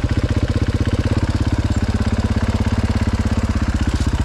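Dirt bike engine running steadily at low revs, with a fast, even train of exhaust pulses.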